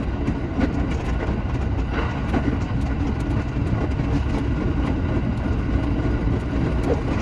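Shinano Railway SR1 series electric train running on the line, heard from on board. There is a steady rumble of wheels on rail, a low hum and scattered light clicks.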